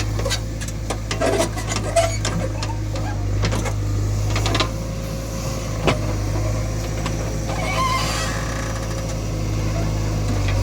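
Heavy diesel engine running steadily, with scattered knocks and clanks over it.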